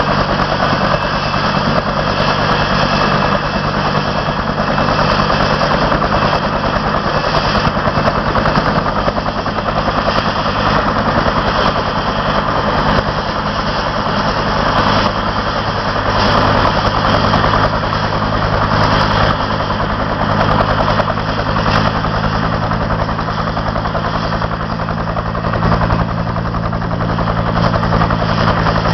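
Helicopter running close by, its rotor and turbine making a loud, steady noise with a low hum underneath.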